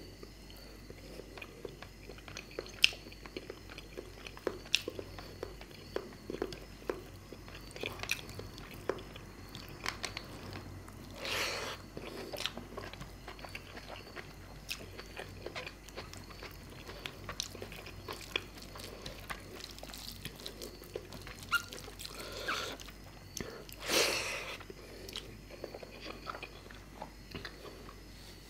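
Close-up chewing and mouth sounds of a person eating fish curry with rice, with many small sharp clicks and wet smacks. Two louder, longer noisy sounds come about 11 and 24 seconds in.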